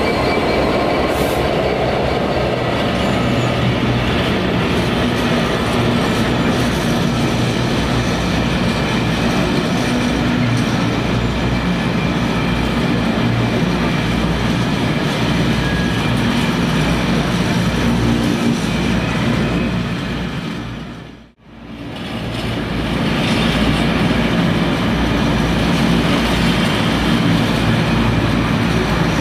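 Freight train passing on the track, a loud steady noise of wheels and wagons on the rails. About twenty-one seconds in the sound dips almost to nothing for a moment, then comes back at full level.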